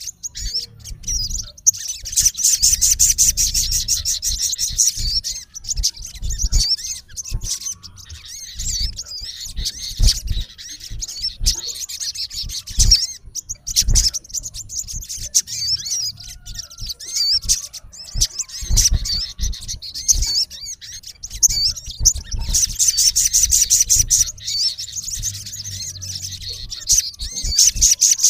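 Male olive-backed sunbird calling: high-pitched chirps throughout, broken twice (about two seconds in and again past twenty seconds) by long, very fast chattering trills.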